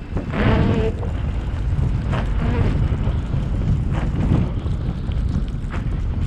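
Car driving through a snowstorm: a steady low rumble of engine and road noise with wind buffeting. A brief higher pitched sound cuts in about half a second in.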